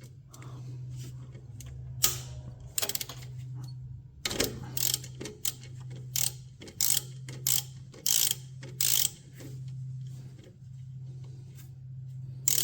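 Ratchet wrench working a 10 mm fastener loose: runs of sharp metallic clicks from the ratchet's pawl on each back-swing, coming in irregular groups about once a second.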